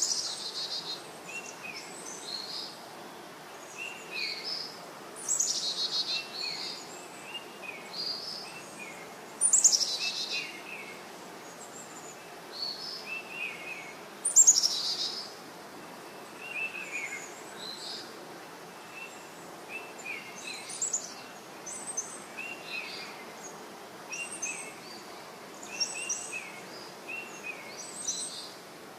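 Small birds chirping over and over, short high chirps about once a second. Three louder, harsher falling calls come about five, nine and fourteen seconds in.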